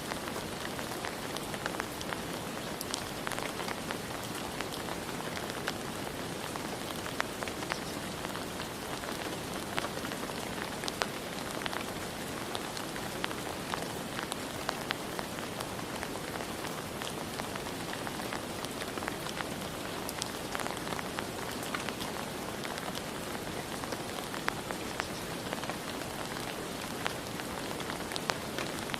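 Steady rain falling on a surface, a constant hiss with many scattered individual drop ticks.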